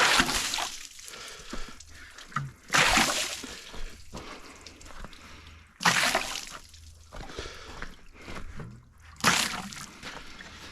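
Water sprayed in four hissing bursts, each about a second long and about three seconds apart, wetting freshly sawn maple slabs to bring out the grain.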